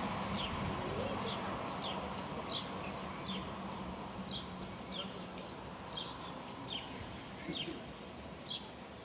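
A small bird repeats a short, high, falling chirp about once a second. Underneath, the noise of a car driving away down the street fades steadily.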